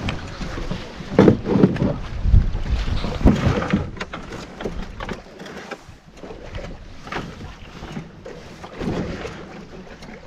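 Canoe paddling: irregular splashes and knocks of paddles working the water, over a low rumble of wind on the microphone. The strokes are louder in the first few seconds.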